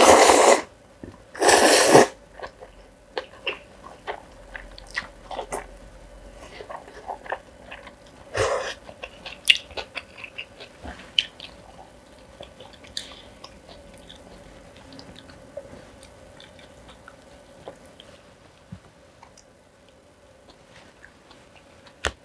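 Close-up eating sounds of a person chewing and crunching kimchi and black-bean-sauce noodles, with many small wet clicks. There are three loud, short rushes of noise: two at the start and one about eight seconds in.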